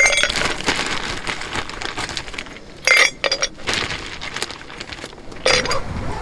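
Four sharp clinks of hard objects, each with a brief ringing tone: one at the start, two close together about three seconds in, and one near the end.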